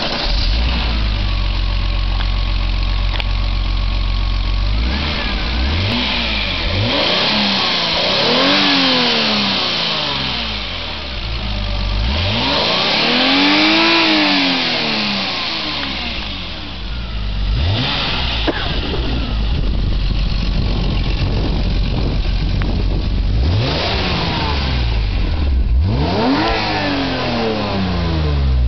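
BMW E34 M5 straight-six engine idling steadily, then revved several times. Each rev rises and falls in pitch, the longest and highest in the middle, and the engine drops back to idle between them.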